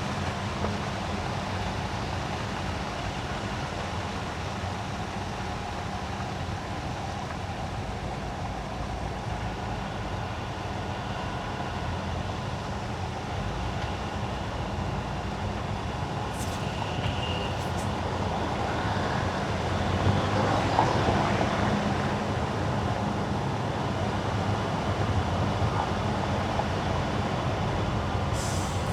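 Car driving on wet winter asphalt: steady tyre and road noise over a low engine hum, getting a little louder about two-thirds of the way through.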